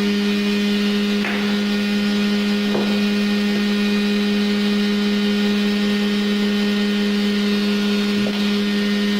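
Mixer grinder's electric motor, rebuilt as a disc sander, running at a steady speed with an even hum and a few faint clicks.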